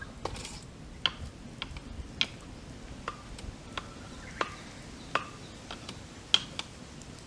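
Wood campfire crackling, with sharp irregular pops and snaps about every half second to second over a low steady hiss.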